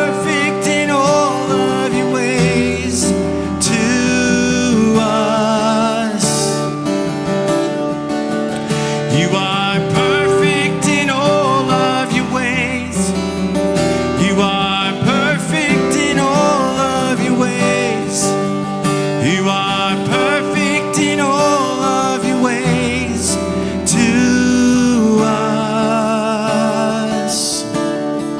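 Live worship music: strummed acoustic guitar with the band, low sustained bass notes and wordless or held sung lines.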